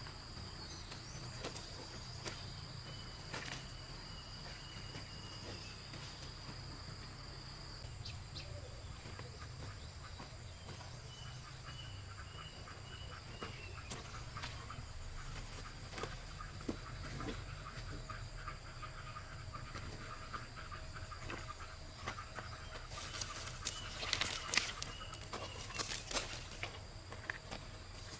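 Forest ambience: insects drone at a steady high pitch, a bird gives short runs of chirps, and a low rumble sits underneath. A cluster of sharp clicks and rustles comes near the end.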